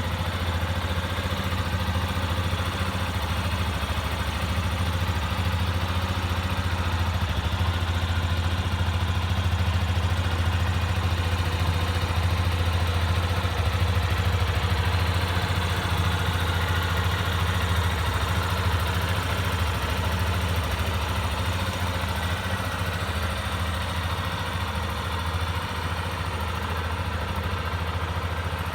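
Yamaha Tricker's air-cooled single-cylinder four-stroke engine idling steadily.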